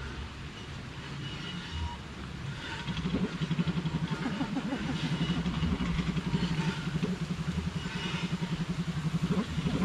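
A small engine running with a fast, even pulsing beat that grows louder about three seconds in, with faint short high chirps above it.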